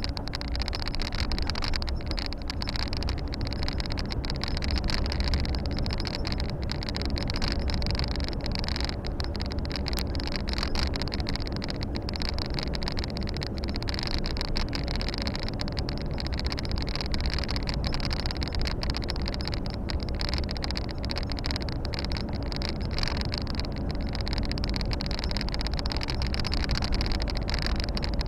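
Inside the cab of a Volvo FH 460 truck under way: the 13-litre six-cylinder diesel drones steadily beneath constant road and tyre noise.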